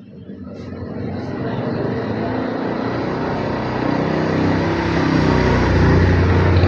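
A motor vehicle passing on the road, its engine and tyre noise growing steadily louder as it approaches and staying loud near the end.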